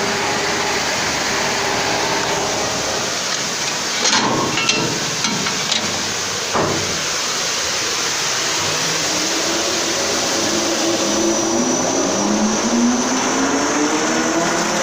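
Industrial washing machine running with a steady mechanical noise and a few knocks about four to six seconds in; from about eight seconds in, a motor whine rises steadily in pitch.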